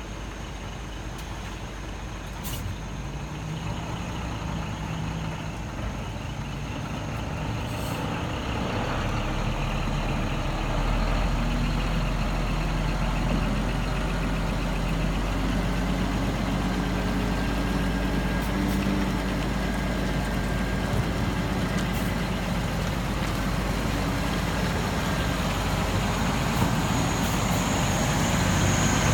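Scania tipper truck's engine running steadily, growing louder over the first ten seconds and then holding, with a few faint clicks.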